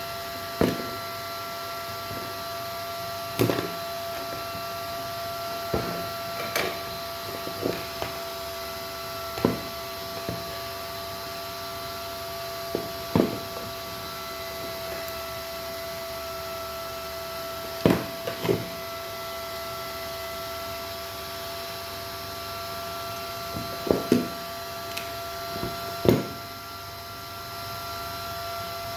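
Sharp clicks and knocks at irregular intervals, about a dozen in all, from hard objects being handled on a work surface, over a steady electrical hum with several high tones.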